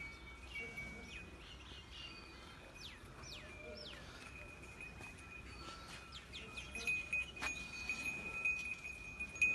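Birds chirping faintly, with a few quick downward-sliding calls about three to four seconds in, over a steady high-pitched tone that sets in about halfway. A single sharp click comes near the end.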